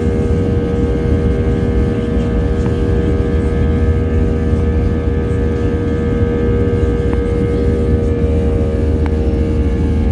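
Airliner cabin noise in flight: a steady engine and airflow rumble with a constant multi-tone hum, plus a few faint ticks.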